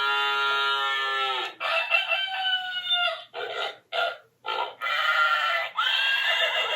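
Recorded farm animal calls played one after another from a toy sound book's button: a long drawn-out call, a falling call, a few short clucks, then a rooster crowing near the end.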